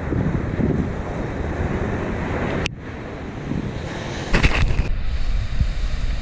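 Waves of a rough sea breaking on the shore, with wind buffeting the microphone. The sound breaks off sharply a little under three seconds in, and heavier wind rumble comes back about a second and a half later.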